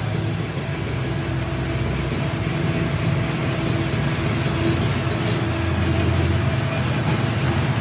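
Tuned two-stroke Kawasaki Ninja 150 RR engine running steadily through an iron-plate racing expansion-chamber exhaust, a continuous low drone whose low note shifts about five and a half seconds in.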